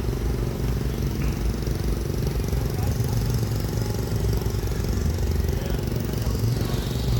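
A vehicle engine running steadily at low speed, a deep even rumble.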